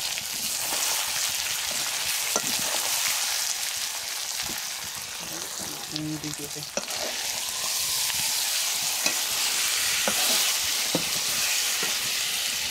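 Chicken frying in a pan with a ginger, garlic and cumin spice paste, a steady sizzle. A few sharp clicks and scrapes of a spoon stirring the pan come through it.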